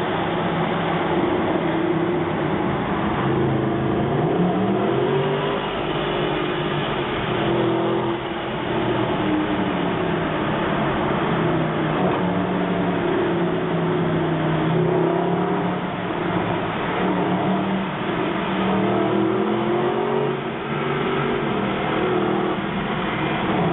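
Mercedes SLS AMG's 6.2-litre V8 running under load, heard through open windows in a tunnel. The engine note rises and falls several times as the car accelerates and eases off.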